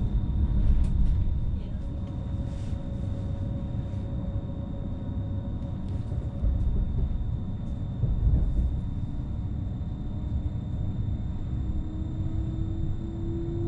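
Cabin running noise of a Westbahn electric train: a steady low rumble of wheels on rail, with a few sharp clicks as the wheels cross points. Near the end a faint motor whine rises slowly in pitch as the train picks up speed.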